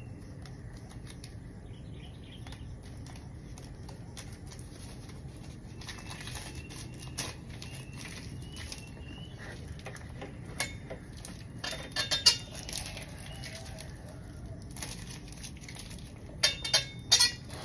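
Scattered light clicks and metallic clinks of tools and metal parts being handled, with a louder cluster about twelve seconds in and a few sharp clinks near the end, over a low steady background hum.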